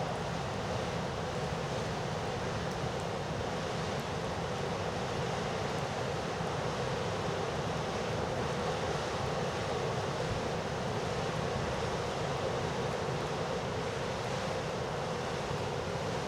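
Heavy surf from a hurricane-driven sea washing in steadily, with strong wind blowing across the microphone.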